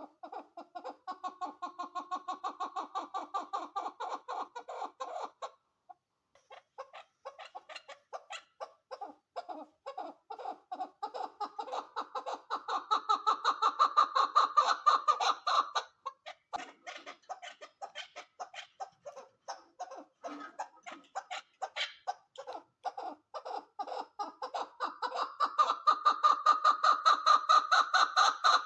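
A female chukar partridge calling: a rapid run of clucking notes, about three a second, in long bouts that swell louder and fade. After a short break about five seconds in, the calls build to a loud peak, drop away, then swell again near the end.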